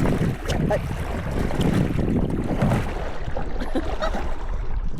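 Wind rumbling on the microphone over a kayak being paddled, with paddle strokes swishing and splashing in the lake water.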